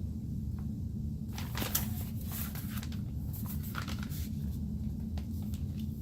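Rustling and scraping handling noises of a vacuum cleaner's long power cord, an irregular run starting about a second in and easing off near the end, over a steady low hum.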